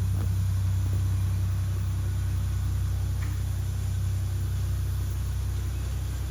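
Steady low rumble and hum of a wood-fired steam locomotive heard from inside its cab, easing off a little near the end.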